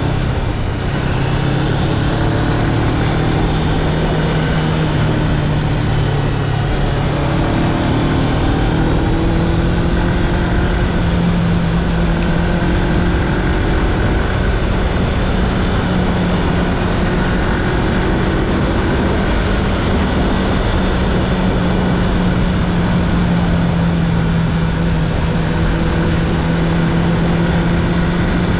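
Honda CB500X's parallel-twin engine running at steady road speed, heard under heavy wind rush on the camera microphone. The engine note dips and climbs again about seven seconds in, then holds steady.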